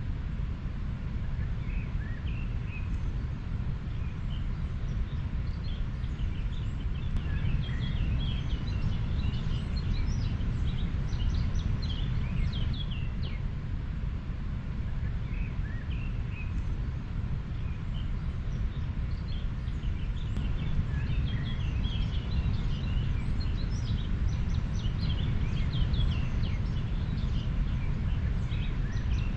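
River water flowing with a steady low rush, with many small birds chirping briefly and repeatedly over it.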